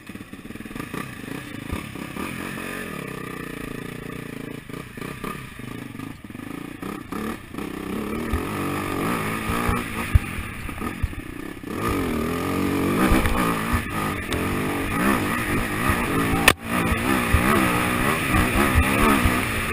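AJP SPR 310 enduro motorcycle engine pulling away and accelerating up a dirt trail, its pitch rising and falling with the throttle and getting louder partway through. A single sharp knock about three-quarters of the way in.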